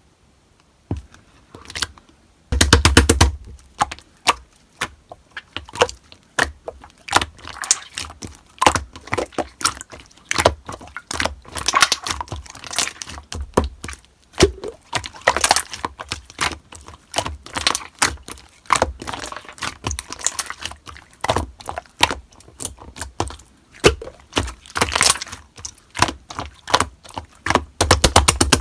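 Slime being squeezed and pressed by hand, giving irregular crackling clicks and pops, with fast runs of popping about three seconds in and again near the end.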